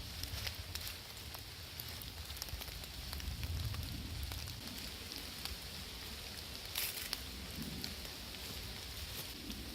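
Rain pattering and a campfire crackling, a steady hiss with many small irregular ticks and one louder snap about seven seconds in.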